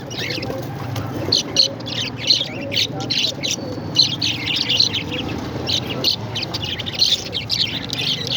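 Several parrots chirping and chattering without a break, a dense stream of short, high chirps over a steady low hum.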